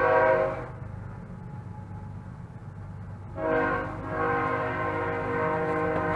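Train horn blowing: a long blast ends about a second in, then another begins about three and a half seconds in and is held. Several notes sound together as one chord, over a steady low hum.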